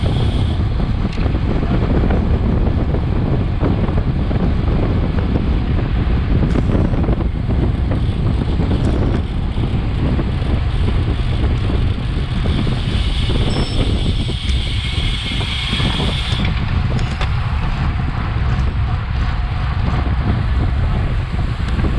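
Steady wind buffeting the microphone of a bike-mounted action camera at racing speed, with low rumble from the moving bike.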